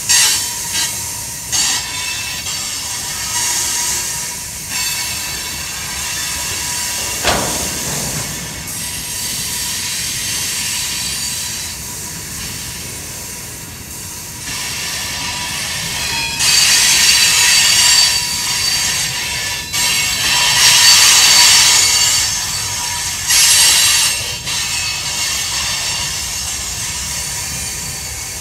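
Loaded freight cars rolling past on a curve: a steady rumble of steel wheels on rail, with high-pitched wheel squeal that comes and goes and is loudest in the second half. A single sharp clank comes about seven seconds in.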